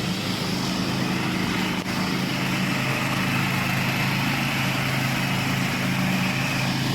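Ride-on lawn mower's Honda 13 hp single-cylinder petrol engine running steadily while mowing, its pitch holding constant.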